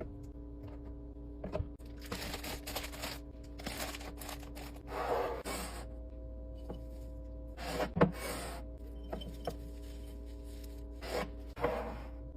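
Intermittent scraping and rustling as items are handled, in five or so separate bursts with a sharp knock about eight seconds in, over a steady hum.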